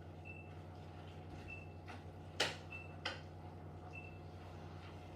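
A stirring spoon knocks twice against the pan of mince and mushroom sauce, over a steady low hum.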